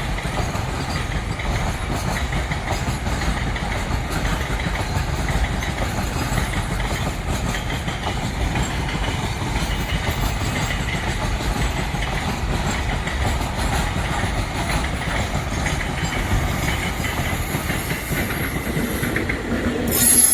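Freight train of rail tank wagons rolling past, a steady rumble with wheels clacking over the rail joints. A high, thin wheel squeal comes in near the end.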